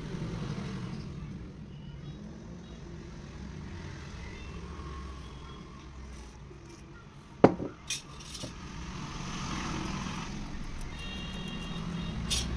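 Steady low rumble of background road traffic, with a sharp click about seven and a half seconds in and a couple of fainter clicks just after.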